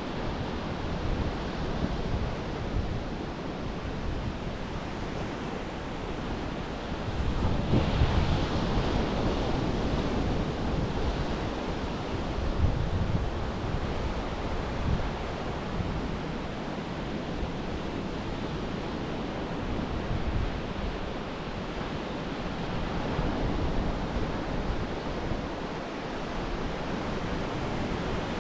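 Surf breaking and washing up a beach, a steady rush that swells louder for a few seconds about a quarter of the way in, with some wind buffeting the microphone.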